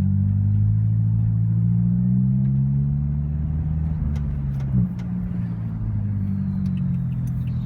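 Eleventh-generation Toyota Corolla engine running steadily under way, with a brief bump about halfway. A faint high whistle comes in and slowly falls in pitch near the end: a noise every 11th-gen Corolla has, jokingly taken for a turbo and likened to a downpipe.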